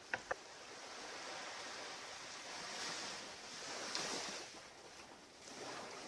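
Surf washing onto a beach, swelling and easing in a rush of noise. Two sharp clicks come right at the start.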